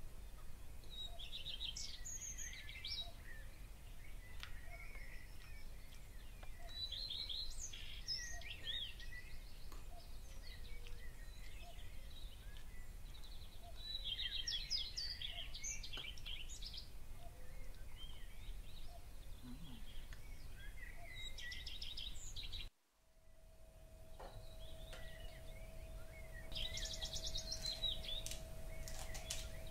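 Birds singing outdoors in short bursts of quick chirps every five or six seconds, over a steady low background rumble. About two-thirds of the way in the sound drops out for a moment, and after it a faint steady hum runs under the birdsong.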